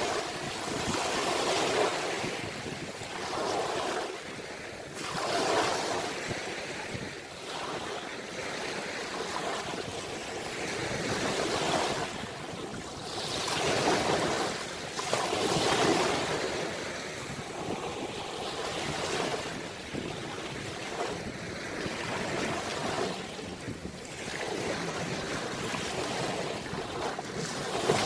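Ocean waves breaking and washing on the shore, the surf swelling and falling every few seconds.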